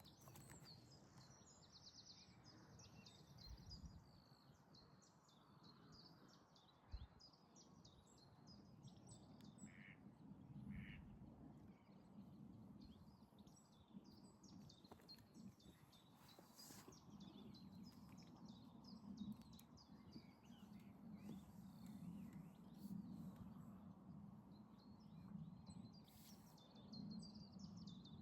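Faint birds calling: many small high chirps throughout, with two short lower calls about ten seconds in, over a low steady rumble.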